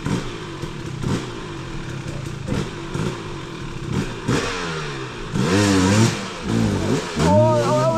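Off-road vehicle engine revving up and down over and over, getting louder about two-thirds of the way in, as the rider gives it throttle through a deep spot on a rain-soaked trail.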